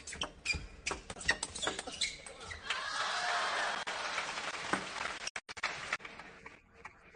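Table tennis rally: the ball clicking rapidly and irregularly off rackets and table, with squeaky sounds that fit shoe squeaks on the court floor. After about two and a half seconds, crowd noise rises and runs for about three seconds, then cuts off.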